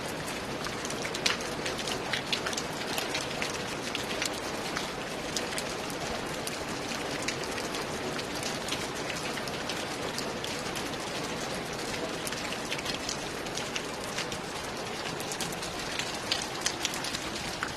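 Steady rain falling on a roof, a dense even hiss with many individual drops tapping sharply and irregularly on top.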